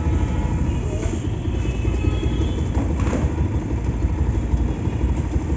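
Motorcycle on the move: steady low wind and road rumble on a helmet-mounted microphone over the engine and passing traffic, with a brief whoosh about three seconds in.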